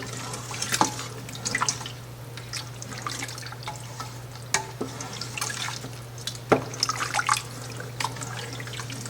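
Chicken stock being poured into a pot of baked-bean sauce, splashing and dripping, with a few sharp clinks in between.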